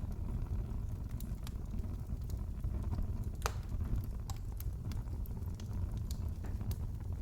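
Fireplace fire crackling: scattered sharp pops at irregular times over a steady low rumble, the loudest pop about three and a half seconds in.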